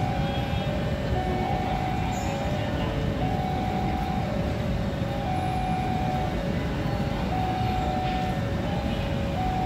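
Passenger train running through the station without stopping, with a steady rumble of wheels on rail. Above it, a two-note tone alternates about once a second.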